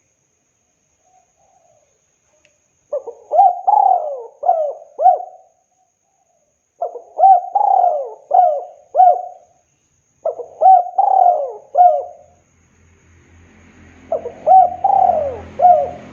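Spotted dove (tekukur) cooing: four phrases of several quick notes each, a few seconds apart. A faint low hum comes in near the end, and the sound then cuts off.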